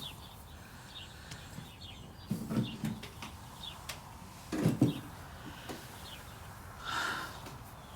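Quiet breakfast-table sounds: scattered faint bird chirps with a few soft clicks and clinks of spoons on dishes, and a couple of brief low murmurs about two and a half and four and a half seconds in.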